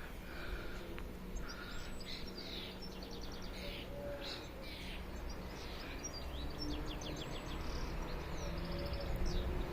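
Small birds chirping and trilling in short, rapid calls over a steady low background noise.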